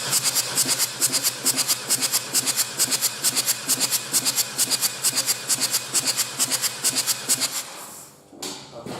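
Ford S-Max 2.0 TDCi (AZWA) diesel engine turning over on its starter without firing, with rhythmic hissing puffs of air, about five a second. The cranking stops about eight seconds in.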